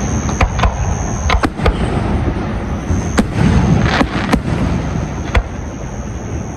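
Aerial fireworks going off: a scattered run of sharp bangs and pops over low rumbling booms.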